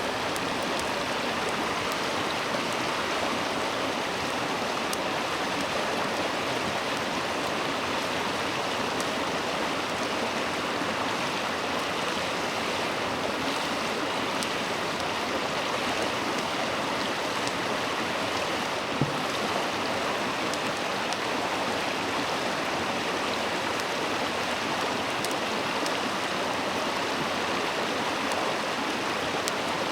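Shallow clear river burbling steadily over its bed. One brief knock sounds about nineteen seconds in.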